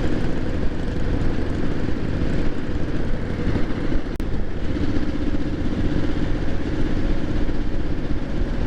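Triumph 900 motorcycle cruising at a gentle steady pace, its engine running evenly under rushing wind noise, with a split-second dropout in the sound about four seconds in.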